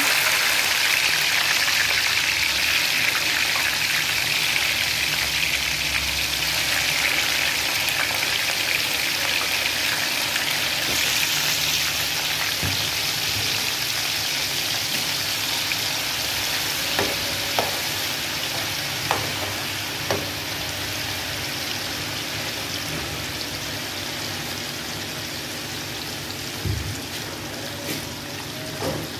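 Potato chips deep-frying in hot oil: a steady, loud sizzle that eases gradually, with a few faint pops in the second half.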